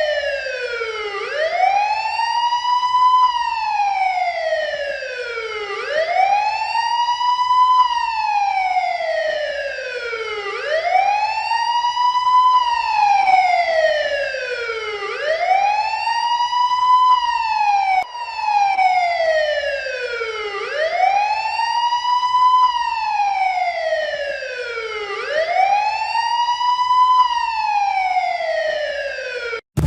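Wailing electronic police-type siren. Its pitch rises quickly and then falls slowly, repeating about every four and a half seconds, and it cuts off just before the end.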